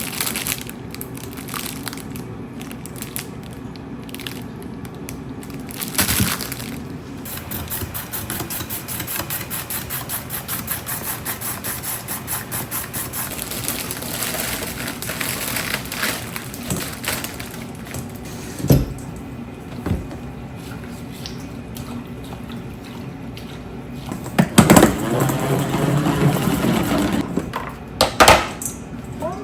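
Kitchen handling sounds: a steady background hum with scattered knocks and clatters of containers or utensils being set down, busiest near the end.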